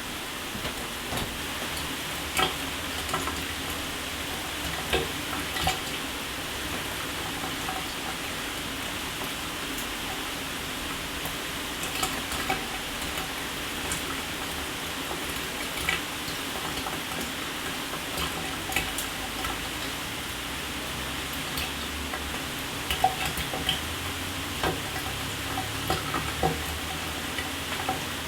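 A shower running: a steady hiss of falling spray, broken by scattered, irregular louder drips and splashes.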